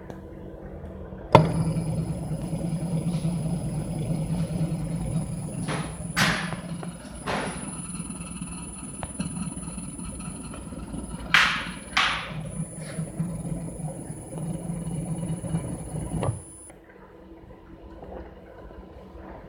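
Electric motor running under a Eurotherm 620 series vector AC drive: a steady hum with a constant high whine switches on suddenly about a second in and cuts off about fifteen seconds later. A few short swishing noises come in between.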